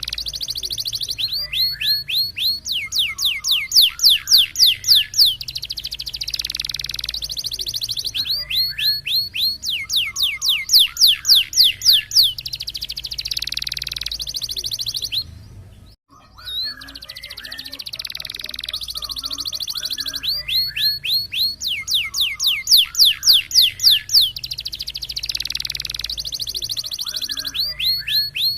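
Domestic canary singing a long, continuous song, roller-type rolls and 'tembak' shots: high, fast rolling trills alternate with runs of sharp, repeated sweeping notes at about eight a second. It cuts out briefly about halfway through, then resumes.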